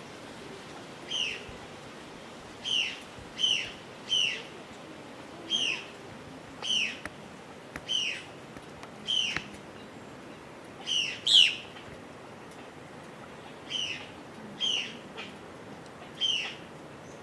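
A bird calling over and over, each call a short falling note, roughly one a second, with a brief pause a little past halfway.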